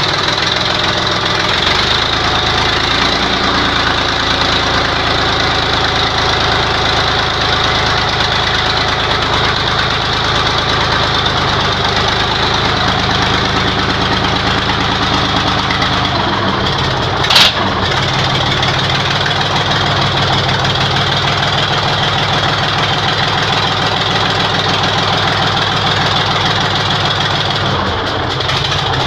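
YaMZ-236 V6 diesel engine running steadily at idle on its first start after a rebuild. One sharp bang is heard about 17 seconds in.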